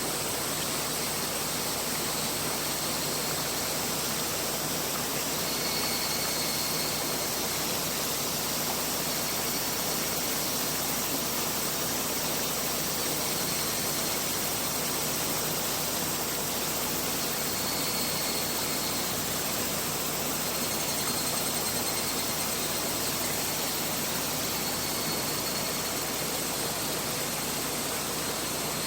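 Mountain river flowing, a steady rush of water with no let-up. A faint high-pitched tone rises above it briefly a few times.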